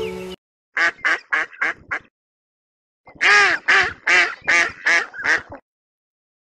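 An animal calling in two quick runs of short, pitched calls: about five near the start, a pause, then a louder run of about seven.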